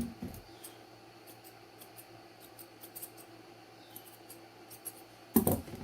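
Grooming scissors snipping stray hair on a small dog's face: a run of light, quick snips, several a second at times, with a louder knock near the end.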